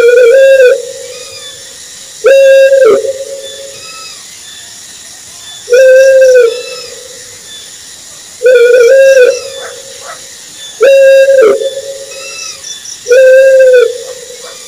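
An owl calling: short hooting notes, each under a second with a slightly arched pitch, repeated about six times at intervals of two to three seconds.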